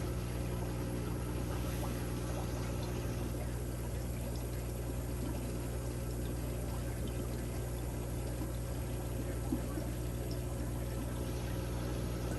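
Aquarium filtration running: a steady pouring and trickling of water over a constant low electrical hum.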